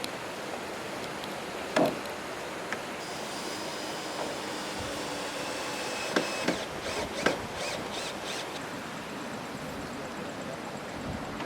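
A few sharp knocks over steady background noise: one about two seconds in, then three close together between about six and seven and a half seconds.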